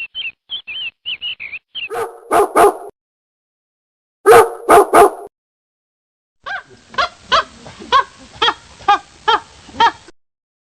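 Dogs barking in a string of separate clips. First come a few quick high yips, then three barks, then three louder barks, then a run of about nine evenly spaced barks, two a second.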